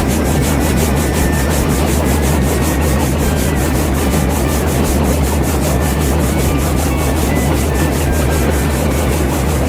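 Small motor-driven homemade machine running steadily, with a low hum and a rapid, even rasping beat of several strokes a second.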